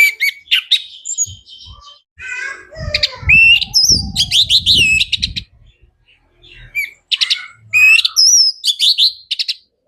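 Orange-headed thrush (anis merah) singing loudly in two long phrases of varied, rapidly changing whistles and trills, with a short pause between them.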